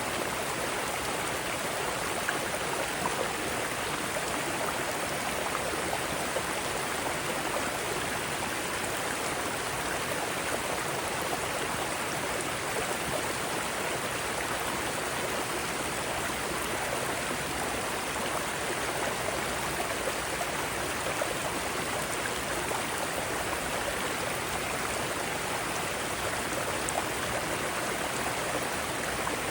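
Mountain stream rushing over rocks, a steady, even water noise without a break.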